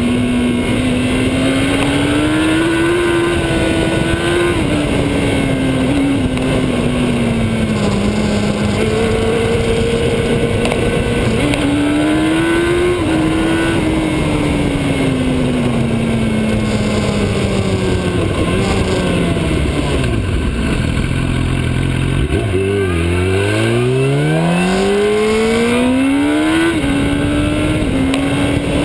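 Motorcycle engine running under way, its pitch rising and falling with the throttle over steady wind noise on the microphone. About twenty seconds in it drops to a low note as the bike slows, then climbs steadily as it accelerates again.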